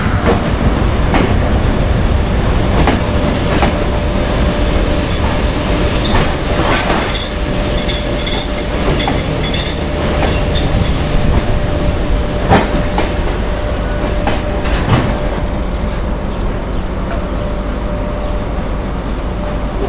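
Passenger train coaches rolling slowly into a station, their wheels running on the rails with a few sharp clacks. A high steady squeal runs from about four to ten seconds in.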